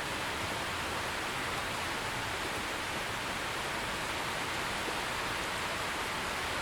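Steady heavy rain falling, an even hiss without distinct drops or breaks.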